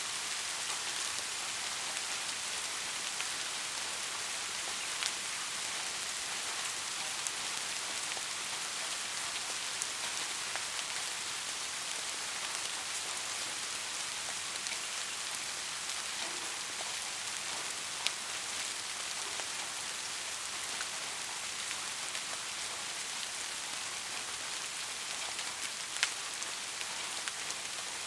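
Heavy rain falling steadily as an even hiss. Now and then a single drop hits with a sharper click, about four times. No thunder is heard.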